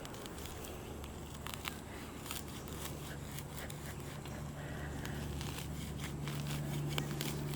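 Hand digger cutting and prying a plug of turf and soil: scattered crackling and scraping clicks, over a steady low hum that grows louder in the second half.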